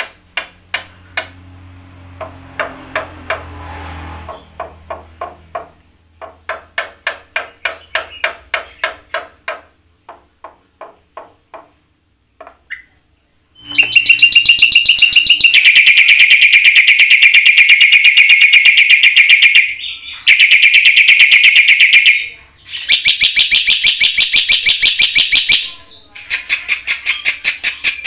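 Black-winged myna (jalak putih) song: a run of sharp, repeated clicking notes several a second, then about halfway through a loud, very fast, unbroken rattling trill that stops briefly twice and ends in more clicks.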